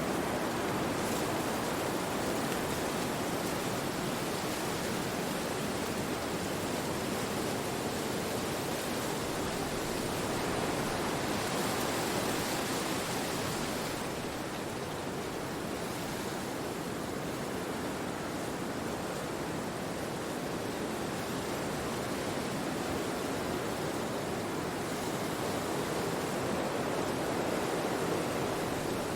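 Wind rushing steadily through forest trees, easing a little about halfway and building again near the end.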